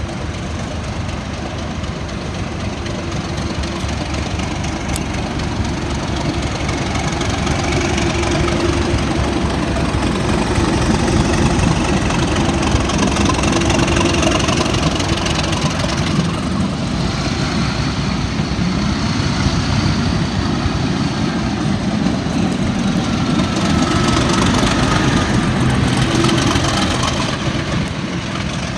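Train engine running at close range, a steady heavy drone that swells a little twice, with faint whines slowly gliding in pitch above it.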